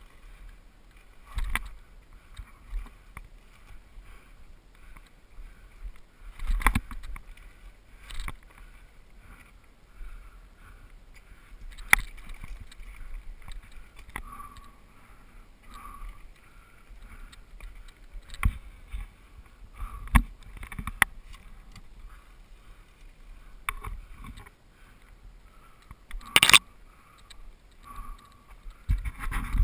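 Mountain bike clattering down a rough dirt trail: irregular knocks and rattles as the wheels hit rocks and roots, over a low rumble of riding noise. A few harder bangs stand out, the loudest near the end.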